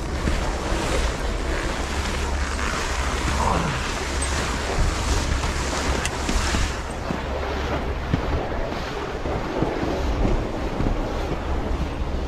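Wind buffeting the microphone while skiing downhill, with the skis hissing and scraping over the snow.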